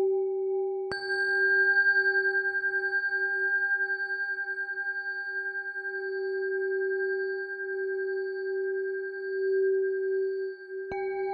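Singing bowl tuned to G, struck about a second in and again near the end, ringing with a long steady tone that wavers in a slow pulse.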